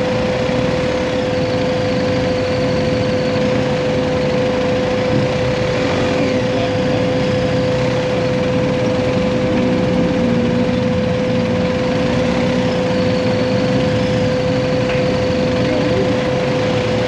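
BMW GS adventure motorcycle engine running steadily while riding, heard from on the bike with road and wind noise and a steady tone over it.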